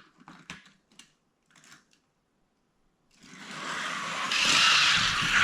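A few light plastic clicks as die-cast toy cars are set in the lanes of a plastic track, then, about three seconds in, the rattling rumble of the cars rolling down the track, growing louder.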